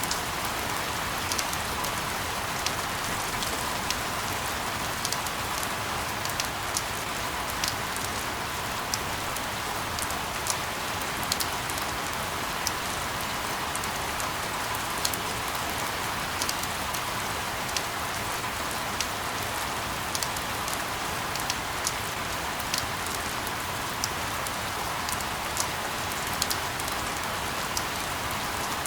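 Steady rain, an even hiss with scattered close drops ticking a few times a second, unchanging throughout.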